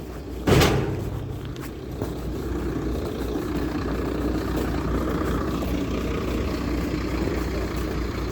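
Truck engine idling steadily, with one sharp knock about half a second in.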